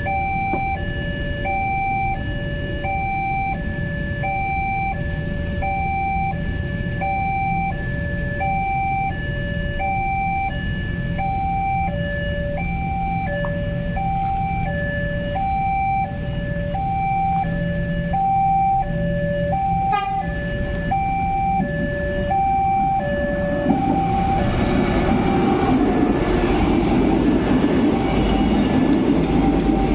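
Railway level-crossing warning alarm: an electronic two-tone signal alternating high and low, about two tones a second. About three-quarters of the way in, the rumble of an approaching train rises and covers it.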